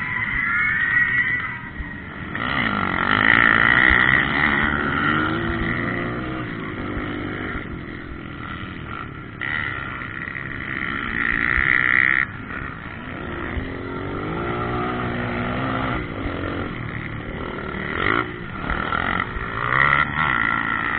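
Motocross bike engines revving on the track, pitch climbing and dropping again and again as the riders work the throttle and shift, with louder swells as bikes come closer.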